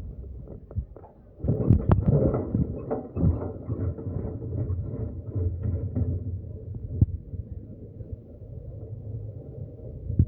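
Vehicle moving on a road: a steady low rumble with scattered knocks and rattles, loudest for a second or so about two seconds in.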